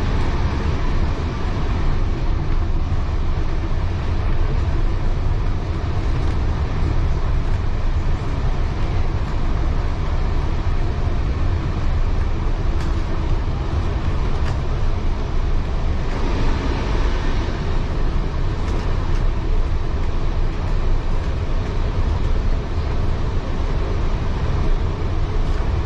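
Heritage railway carriage running along the track, heard from inside: a steady, loud rumble of wheels and carriage, with the hiss growing brighter for a few seconds past the middle.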